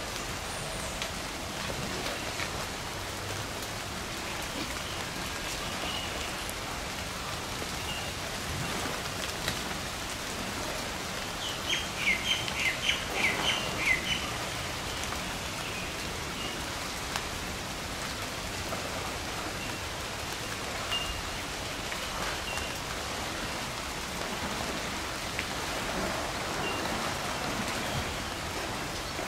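Steady rain falling, with a bird calling a quick run of chirps a little before halfway through, the loudest sound here, and a few single faint chirps at other times.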